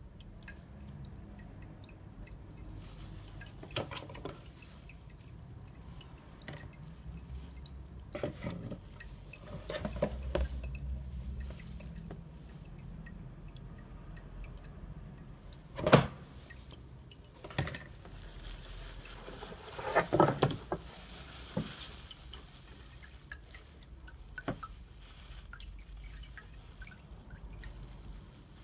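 Liquid dripping, most likely diesel running out of the fuel filter housing during a filter change, with scattered sharp knocks and clicks from handling parts. The loudest knock comes about halfway through, and a cluster of them follows a few seconds later.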